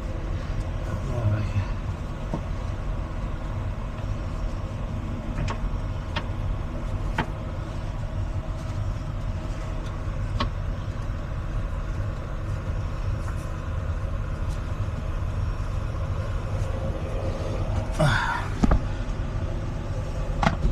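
Heavy truck engine idling steadily, with a few light clicks of work around it and a brief higher squeak near the end.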